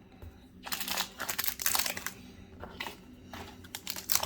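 Foil booster-pack wrapper crinkling as it is handled, starting after a short quiet moment and going on in a run of short crackles.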